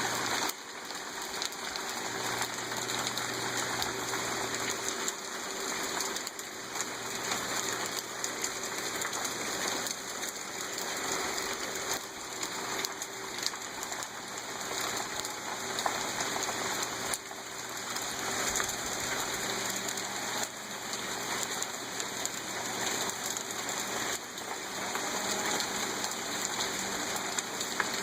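Hail coming down hard: a steady hiss of pellets hitting the ground and nearby surfaces, dense with small ticks.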